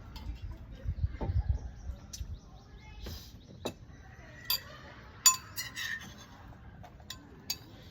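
Tableware being handled during a meal: a series of sharp, short clinks and knocks, the loudest about five seconds in.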